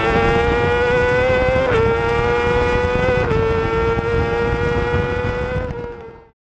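Racing motorcycle engine held at high revs, its pitch climbing steadily and dropping slightly twice, about a second and a half apart, as it shifts up a gear. The sound fades away near the end.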